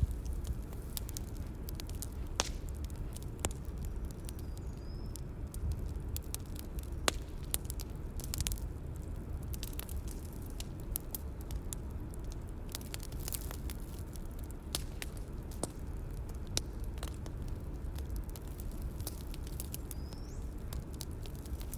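Bonfire crackling: a steady low rumble of burning with frequent sharp, irregular pops and snaps of burning wood.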